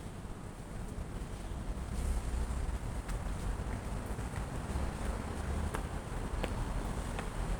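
Wind buffeting the microphone in a low, steady rumble that grows stronger about two seconds in, with a few faint ticks.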